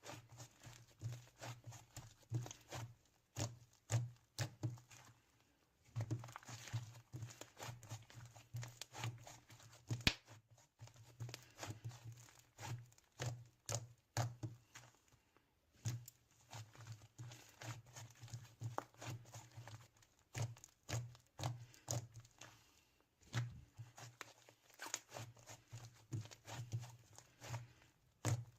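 Slime being squished and pressed by hand, giving a dense run of short, irregular clicks and pops.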